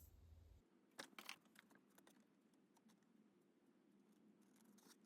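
Near silence, with a few faint, scattered clicks and light rustles of craft paper and tools being handled at a table.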